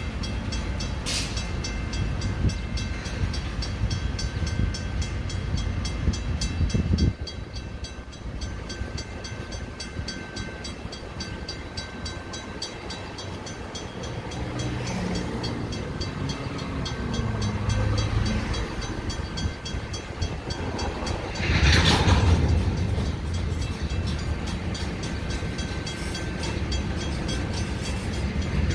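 Slow-moving freight train of covered hopper cars rolling through a grade crossing: a steady low rumble of steel wheels on rail, with the crossing signal's bell ringing on and on. A louder noisy surge comes about three quarters of the way through.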